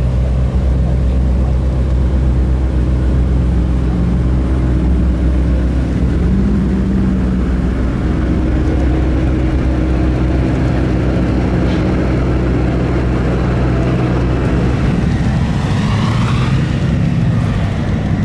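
Car engine running steadily at low revs, its note shifting about fourteen seconds in, with a brief rising sound near the end.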